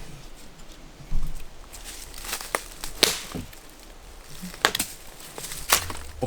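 Dry firewood sticks snapping and cracking: about half a dozen sharp, separate cracks as wood is broken up.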